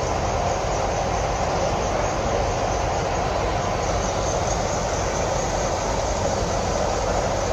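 Steady rumble of a bus moving at speed on a highway: engine, tyre and road noise.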